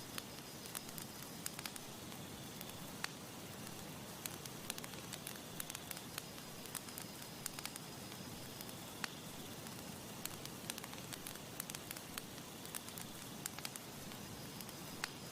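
Campfire burning, with a steady soft hiss and irregular sharp crackles and pops of wood throughout.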